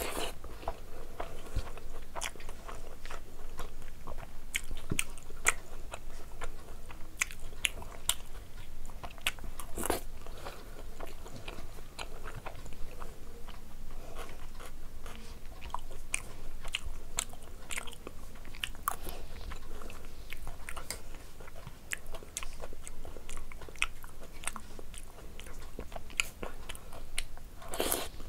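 Close-up eating sounds: spoonfuls of chaat with crisp fried puri pieces being bitten and chewed, with many small irregular crunches and wet mouth sounds throughout.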